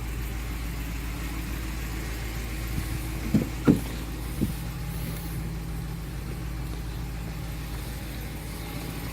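6.4-litre Hemi V8 of a 2017 Ram 2500 Power Wagon idling steadily, with a few light knocks about three to four seconds in.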